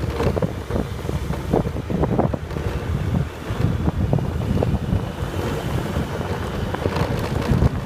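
Heavy wind buffeting the microphone on a moving motorbike: a loud, gusty low rumble with no steady engine note standing out.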